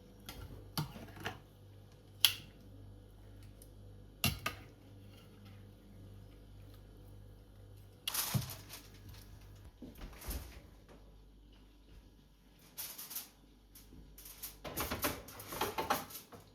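Scattered clicks, knocks and clatter of objects being handled in a small room, with one sharp click about two seconds in and busier clatter about eight seconds in and again near the end.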